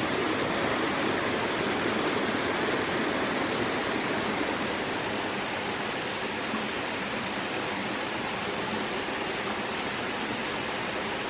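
Steady rushing noise with no tone or rhythm in it, easing slightly about four seconds in.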